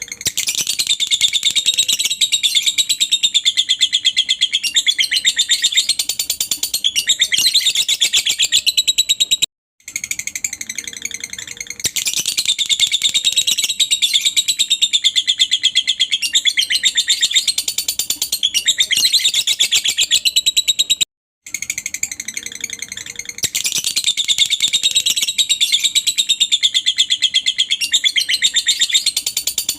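Lovebird singing a long, continuous, rapid high trill (the chattering 'ngekek' song), played as a recording that repeats about every 11 seconds with a brief silence between repeats.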